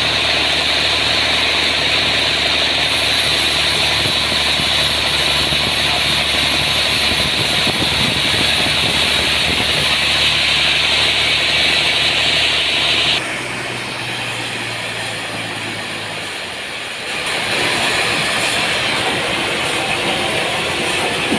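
Sawmill engine running steadily under a loud high hiss. About 13 seconds in, the hiss and the lowest hum cut off and the sound drops. About four seconds later the hiss comes back.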